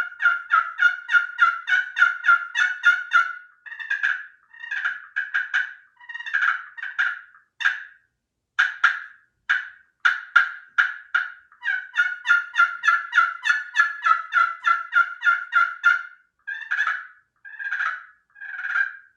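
Wooden turkey pot call worked with a striker, imitating a hen turkey with series of yelps. A fast run of notes opens it, then slower spaced notes, a second long fast run, and single longer notes near the end.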